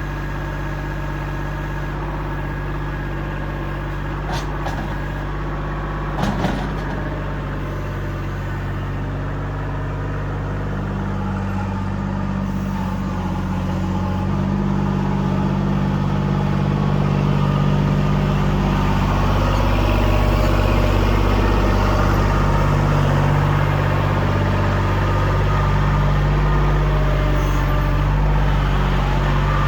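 Kubota L2501 compact tractor's three-cylinder diesel engine running, with two short clanks a few seconds in. From about ten seconds in, the engine revs up and runs louder, as if under load.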